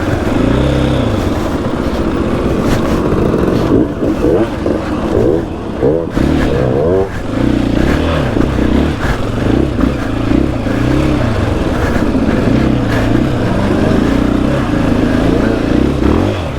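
KTM 500 EXC-F single-cylinder four-stroke dirt bike engine being ridden off-road, its pitch rising and falling over and over as the throttle is rolled on and off and gears change, with short drops when the throttle is chopped.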